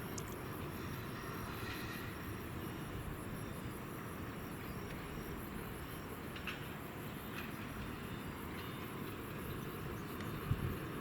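Steady low rumble of a distant jet airliner's engines, a Boeing 737-800, with crickets chirping steadily. Two short thumps come near the end.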